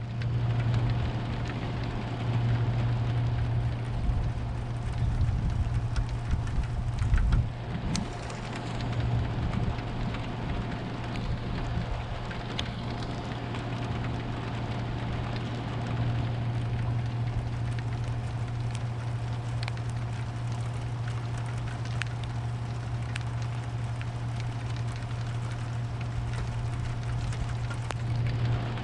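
Steady rain in a thunderstorm, with scattered drop ticks over a constant low hum. A low rumble of thunder swells from about four to eight seconds in.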